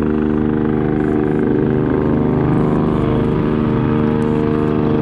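Royal Navy formation of a Fairey Swordfish biplane with Wasp and Wildcat helicopters flying in: a loud, steady drone of piston engine, turbines and rotors, holding one humming note with several overtones.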